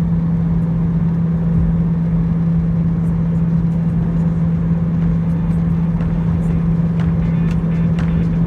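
Jet airliner cabin noise in flight: a steady engine drone with a strong low hum and rumble beneath.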